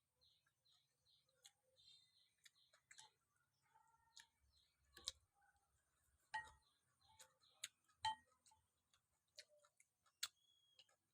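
Near silence with faint, irregular clicks and ticks and a few faint high chirps.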